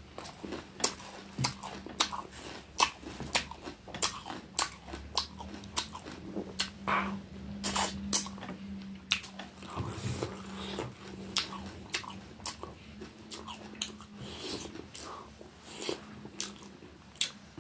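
Close-up chewing and mouth sounds of a person eating rice and fish curry by hand: wet lip smacks and sharp mouth clicks, several a second in an uneven rhythm.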